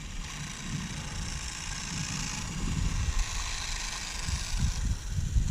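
Original brushed electric motor of a vintage Kraft Elect Rider RC motorcycle running steadily as the bike cruises on asphalt, a thin high whir, with a low rumble of wind on the microphone.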